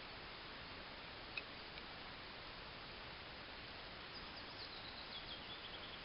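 A songbird singing a short descending run of high chirps near the end, over a steady hiss, with one sharp click about a second and a half in.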